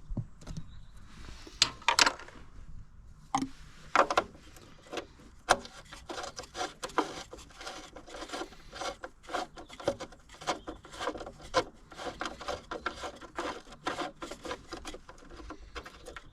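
Hand tools on a car engine: a few separate metallic clicks and knocks, then a long run of rapid, even clicks from about six seconds in, typical of a socket ratchet being worked on a 10 mm bolt behind the engine fan.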